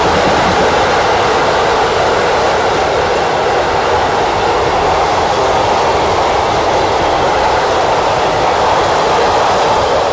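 Train passing close by, a steady loud rush of wheels on the rails.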